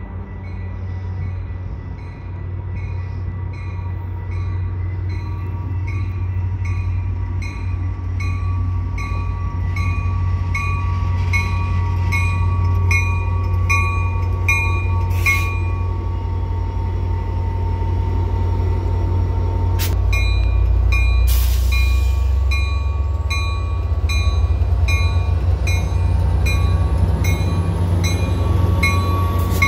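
Metra diesel commuter train arriving at a station platform, its engine rumbling low and growing louder as it pulls in, with a bell ringing steadily about twice a second. A couple of sharp clicks and a brief hiss come about two-thirds of the way through.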